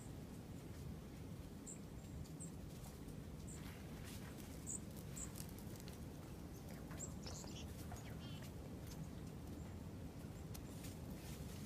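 Small wild birds giving short, high chirps, about half a dozen scattered through the stretch, with a few quick falling calls in the middle, over a low steady rumble.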